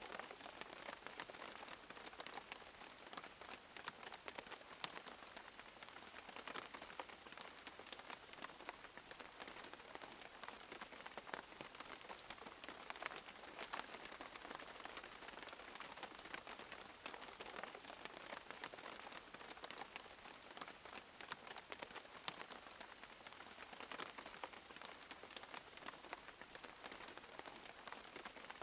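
Steady light rain falling on a surface, an even hiss with many small drop ticks.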